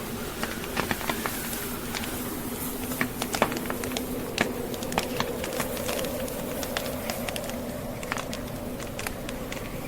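Burning logs crackling in a fireplace, sharp irregular pops several times a second, over the steady low howl of a snowstorm wind.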